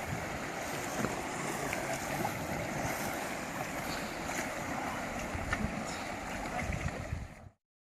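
Rushing river water around an inflatable raft, with wind buffeting the microphone; the sound cuts off abruptly near the end.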